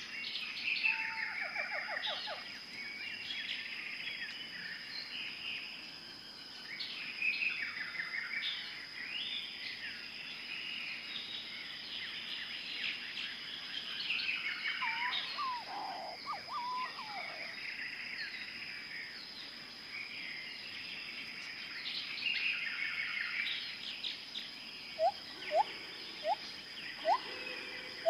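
Several birds chirping and trilling over a steady high-pitched tone. Near the end, short, loud, rising calls repeat about once a second.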